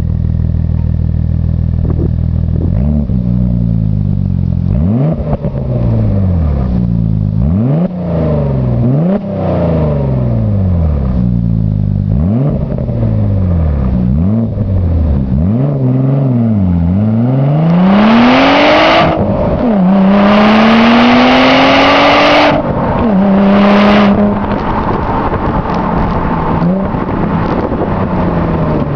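Audi S4's 2.7-litre twin-turbo V6 with a custom exhaust and intake, driven hard: the revs climb and fall back again and again, then the engine pulls long and loud about two-thirds through before settling to a steadier run near the end.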